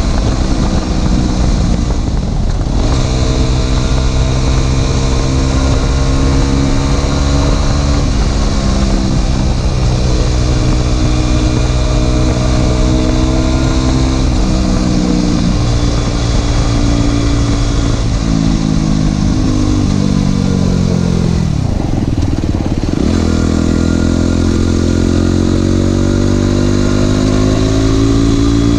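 Aprilia SX 125 supermoto's single-cylinder four-stroke engine running through an Arrow exhaust with the dB killer removed, ridden on the road: revs climb and step through gear changes, with two sharp drops off the throttle, about two seconds in and again about twenty-two seconds in, each followed by a climb back up.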